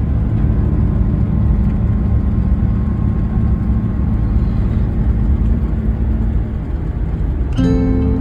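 Car driving along a road: steady low rumble of engine and tyre noise. Guitar music comes in near the end.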